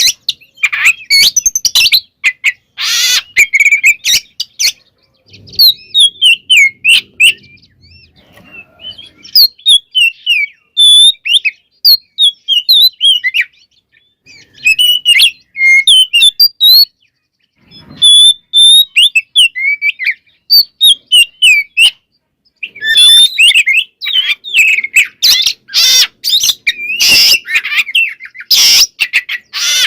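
Oriental magpie-robin (kacer) singing a fast, varied song of sliding whistled notes, packed with mimicked phrases of other birds. Loud harsh, rasping bursts come at the start and again over the last several seconds, with a couple of brief pauses between.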